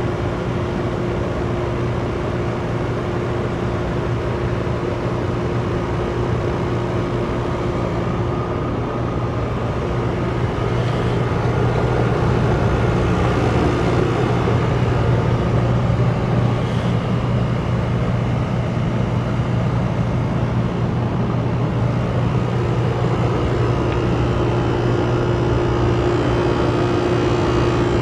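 Ruud Achiever RP14 heat pump outdoor unit running in its defrost cycle: a steady mechanical hum with a constant low tone and a higher tone above it, which gets louder about eleven seconds in.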